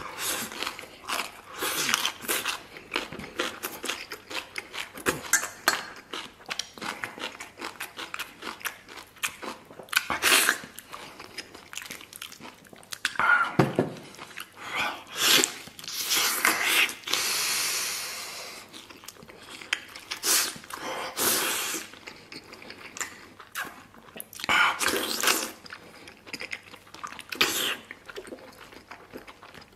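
Close-miked mouth sounds of eating braised pork knuckle: irregular chewing, smacking and biting into soft meat and skin held in the hands. The first bite is shredded vegetables taken with chopsticks.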